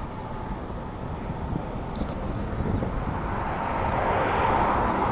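A passing motor grows louder over the last couple of seconds, over a steady background of wind noise.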